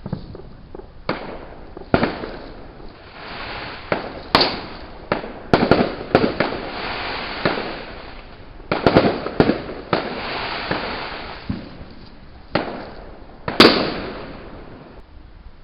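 Fireworks going off: a string of sharp bangs with crackling between them, the loudest bang near the end, after which they die away.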